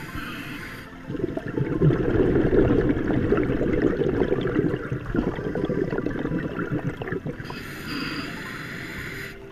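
A scuba diver's exhaled breath bubbling past an underwater camera housing: a muffled, crackly bubbling that starts about a second in and dies down after about six seconds.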